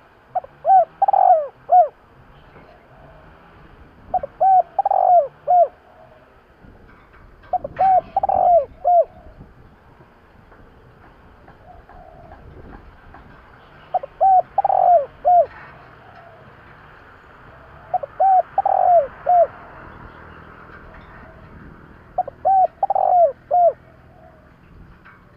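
Spotted dove cooing: six phrases of three or four short coos each, one phrase every four seconds or so, with a longer pause about halfway through.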